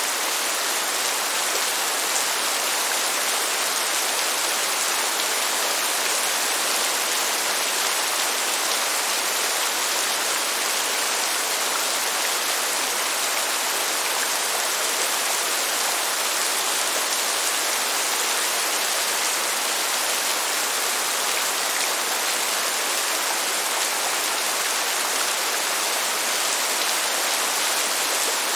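Steady rain, a dense even hiss that does not change and has no thunder.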